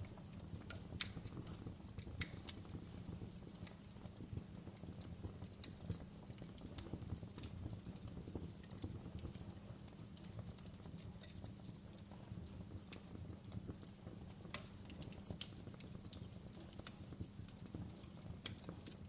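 Wood fire burning in a fireplace: a steady low rumble of flames with irregular sharp crackles and pops, the loudest about a second in.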